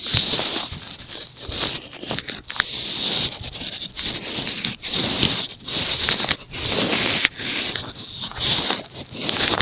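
Makeup brush bristles swept over a microphone close up, in repeated rustling strokes a little more than one a second.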